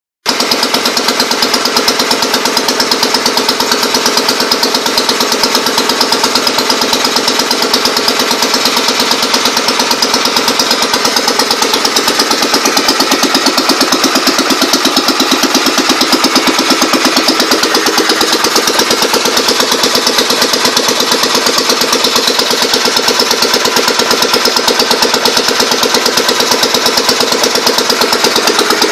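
Engine of a J.A.P. compressor set running steadily, with a rapid, even beat of firing strokes.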